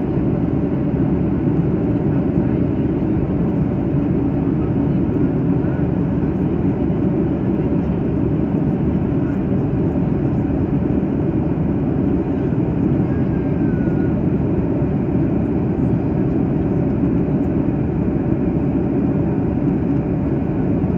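Steady cabin noise inside a Boeing 737-800 in flight: a constant low rush of airflow and the CFM56 turbofan engines, even throughout.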